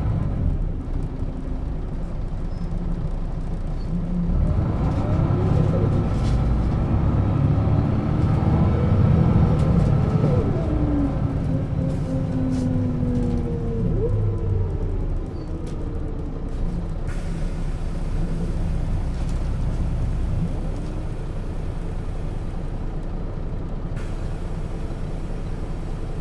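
1996 Setra S 315 UL city bus's diesel engine and ZF gearbox while driving: the engine note rises as the bus pulls away, then glides down as it slows about halfway through, with light rattles along the way. A steady hiss sets in later on.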